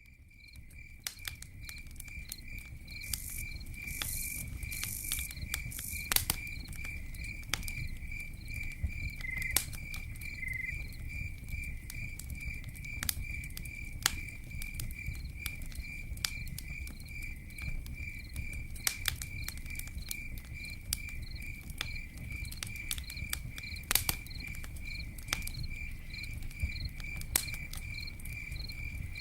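Campfire crackling, with sharp pops scattered throughout over a steady low rumble of burning wood, while crickets chirp in a steady fast pulsing trill. The sound fades in over the first couple of seconds.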